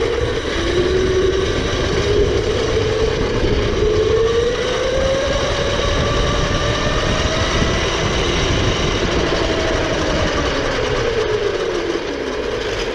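Electric motor of a mini electric quad bike whining as it runs, the pitch rising slowly as it gathers speed and falling again near the end as it slows, over a low rumble.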